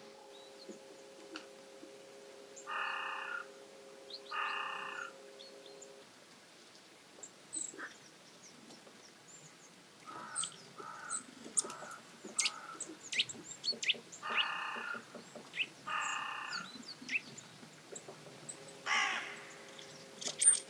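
Wild birds calling: five loud harsh calls, in two pairs and one more near the end, with short chirps and clicks from smaller birds in between.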